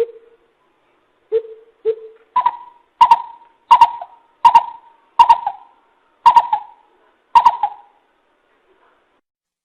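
Coucal (bìm bịp) calling: a series of deep, hollow hoots, a couple of lower notes followed by about seven higher ones spaced roughly two-thirds of a second apart, each trailing off with an echo.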